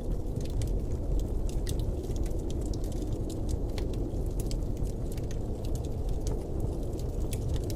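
Blizzard wind ambience: a steady low rushing rumble, dotted throughout with frequent sharp ticks and crackles.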